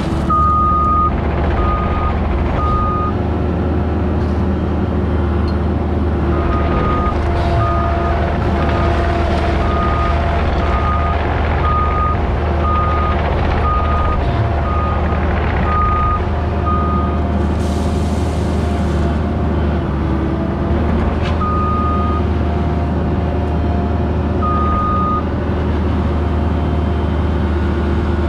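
Diesel earthmoving machine running steadily while grading, its backup alarm beeping about once a second in spells as it reverses.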